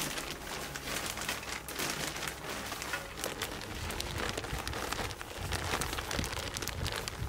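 Rain pattering, a dense even crackle of many small drops.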